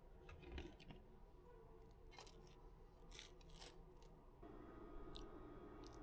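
A few faint, short scratchy strokes, like a tool or pencil rubbing on paper. A low steady hum starts a little past the middle.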